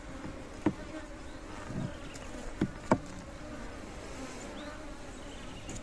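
Honeybees buzzing in a steady hum around an opened hive, with three short sharp clicks in the first three seconds.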